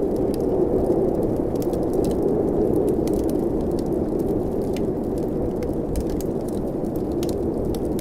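Steady howl of blizzard wind with a wood fire crackling in irregular small pops and snaps over it.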